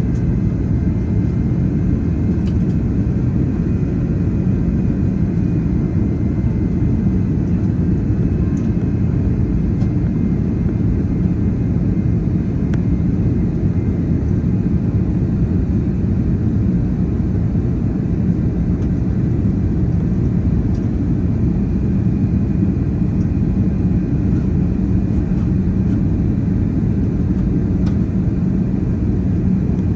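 Steady cabin rumble of an Airbus A330-900neo, its Rolls-Royce Trent 7000 engines and airflow heard from inside the passenger cabin, unchanging throughout, with a few faint ticks.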